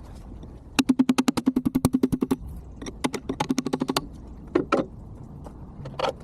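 Rapid runs of sharp metal-on-metal taps during work on a backhoe hydraulic cylinder, sped up to about a dozen a second, with a ringing tone under the first run. A few separate knocks follow near the end.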